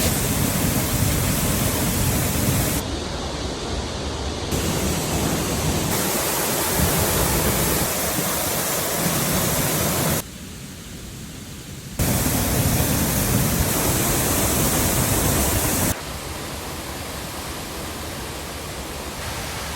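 Steady rushing noise of a 50-foot waterfall. The level changes abruptly several times, dropping sharply for about two seconds near the middle and stepping down again later.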